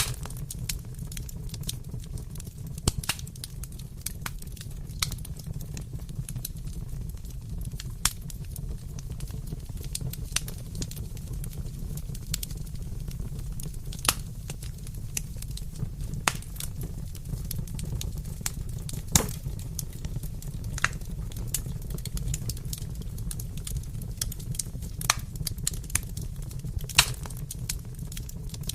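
Fireplace fire crackling: a steady low rumble of the flames with irregular sharp pops and snaps, a few louder ones standing out.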